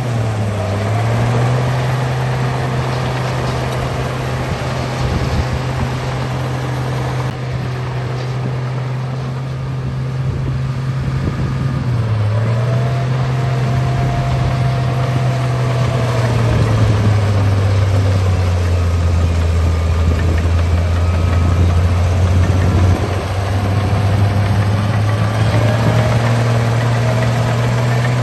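Bulldozer engine running steadily. Its pitch dips briefly about half a second in and again about twelve seconds in, then sags lower for several seconds before picking back up near the end.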